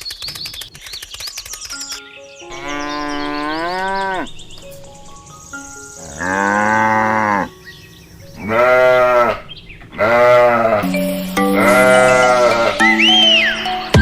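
A series of five long, drawn-out animal calls, each about a second or more, with the pitch sagging at the end of each, and a short high whistle that rises and falls near the end.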